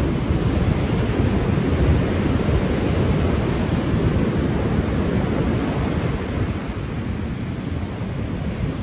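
Ocean waves washing steadily, a continuous surf noise with a deep rumble.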